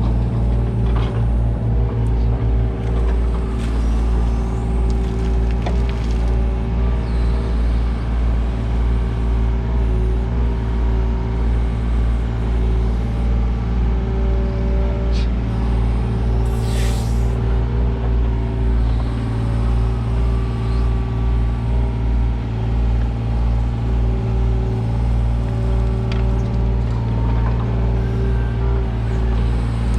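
Kubota U55-4 mini excavator's diesel engine running steadily while working, its loudness rising and falling with the load, with a brief falling hiss about halfway through.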